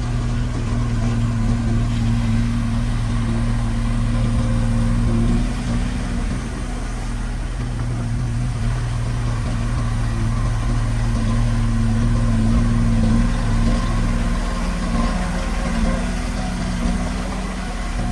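Diesel engine of heavy earthmoving equipment running at a steady, even pitch, with slight dips in level twice.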